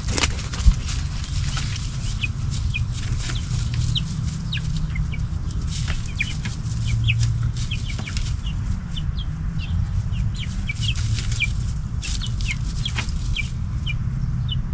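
Newly hatched chicks peeping in many short, high chirps, over a steady low rumble and scattered clicks.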